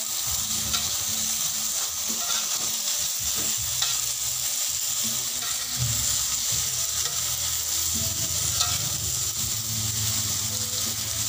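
Sago grubs frying in soy sauce in a wok, a steady sizzle, while a spatula stirs and turns them with light scrapes against the pan.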